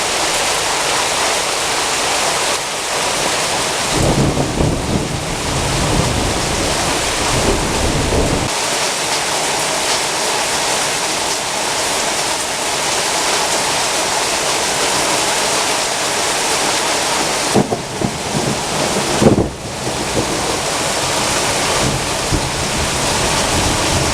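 Heavy thunderstorm rain pouring steadily. A low rumble of thunder comes in about four seconds in and lasts about four seconds. A few sharp knocks follow near the end, the loudest just before the last few seconds.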